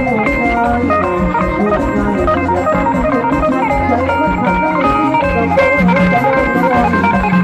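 Live stage band playing an instrumental passage: guitar and electronic organ over a steady bass and drum beat.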